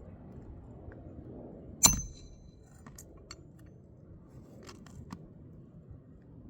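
A metal tool strikes once with a sharp clink that rings briefly, followed by a few light clicks and ticks of handling during work on asphalt roof shingles.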